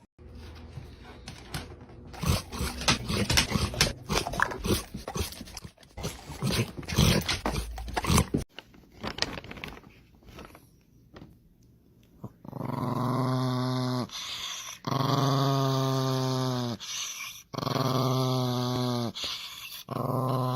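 A dog growling: about eight seconds of noisy scuffling and rustling with rough growls, then, after a short lull, four long, steady, low growls, each lasting one and a half to two seconds.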